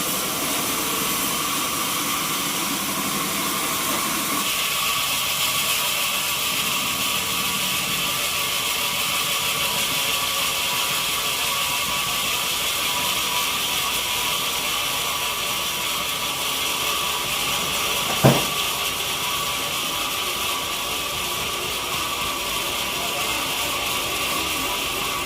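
Sawmill machinery running steadily with a constant whine; its sound shifts higher about four seconds in, and there is a single sharp knock about eighteen seconds in.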